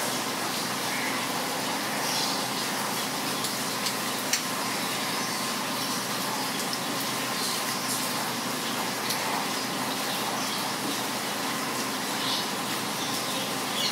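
Steady rain falling on a wet paved street, an even hiss, with a brief tap a little after four seconds in.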